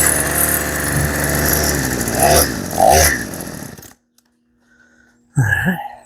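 Poulan P3314 two-stroke chainsaw running with its chain brake locked, revved twice about two and three seconds in, then bogging down: the locked chain is holding the engine back. The engine sound cuts off suddenly about four seconds in, and a brief short sound follows near the end.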